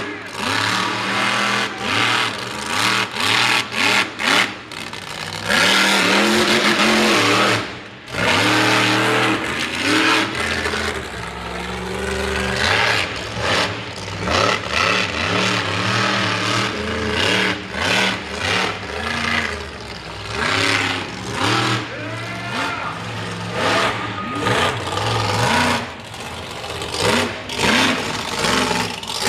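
Mega truck engine revving hard, the throttle blipped on and off in quick bursts, with a couple of longer full-throttle pulls in the middle.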